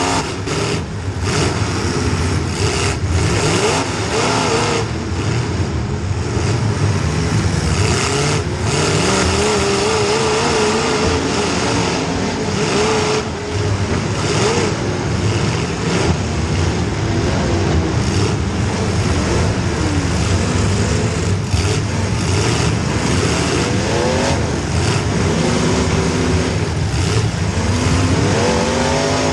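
Demolition derby car's small-block Chevy V8 revving up and down hard, its pitch rising and falling again and again, with several sharp knocks along the way.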